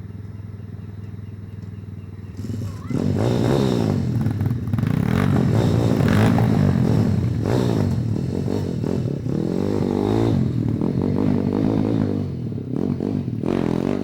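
Small single-cylinder pit bike engine running steadily at low revs, then from about three seconds in revving hard, its pitch rising and falling again and again as the throttle is worked.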